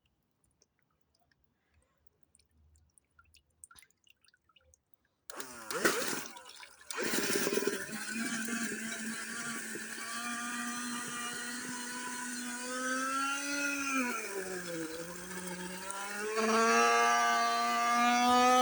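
Handheld vacuum cleaner motor switched on about five seconds in: a short burst, a brief drop-out, then a steady siren-like whine. The pitch sags and climbs back near the end, where it runs louder. The vacuum is filled with water.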